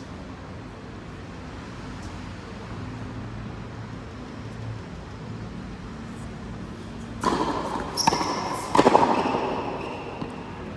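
Three loud, sharp hits of racket on ball in a large hall, about a second apart. The last is the loudest, and each rings on briefly after several seconds of steady room noise.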